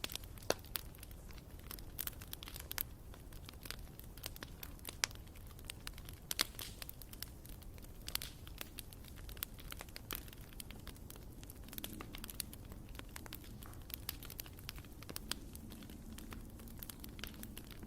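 Bonfire crackling: irregular sharp pops and snaps of burning wood over a low steady rumble of the flames.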